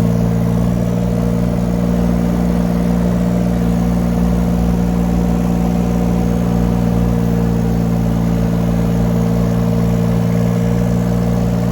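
Engine of a 2-ton mini excavator running steadily at an even pitch as the machine drives along on its tracks.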